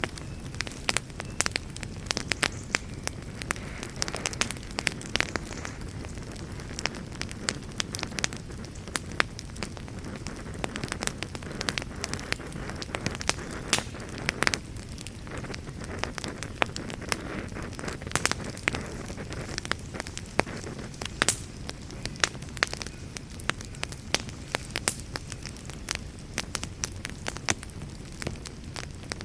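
Campfire burning steadily with a low rush of flame and frequent irregular crackles and pops of burning wood.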